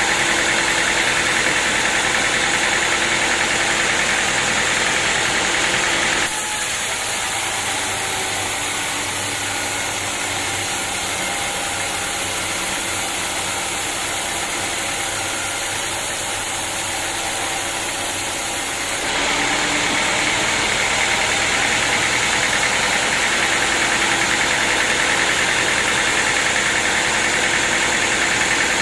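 Sawmill saw and its engine running steadily. The sound switches abruptly to a quieter, duller tone about six seconds in, then back to the louder, brighter noise about nineteen seconds in.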